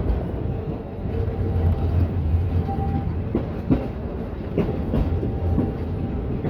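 Heritage train running along the track: a steady low rumble, with wheels clicking over rail joints a few times about halfway through.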